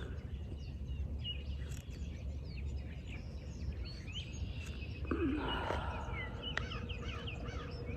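Wild birds chirping in short, scattered calls over a steady low outdoor rumble.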